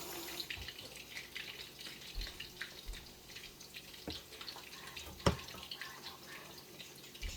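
Light crackling and ticking from rice and vermicelli browning in margarine in a hot pan, with a few soft knocks and one sharp clack about five seconds in.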